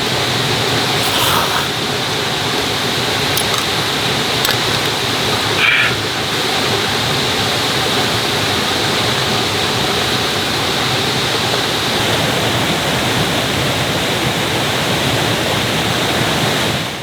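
Mountain stream rushing steadily, a dense even sound of flowing water.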